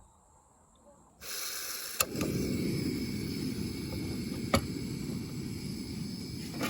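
Insects chirring steadily over a low rumbling noise, with three sharp clicks about 2 seconds apart. It starts after about a second of near silence.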